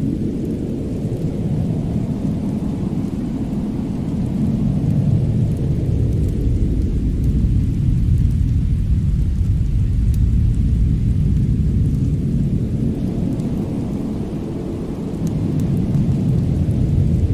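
Winter attic ambience: a deep, continuous rumbling roar that swells and eases over several seconds at a time, with a few faint crackles on top.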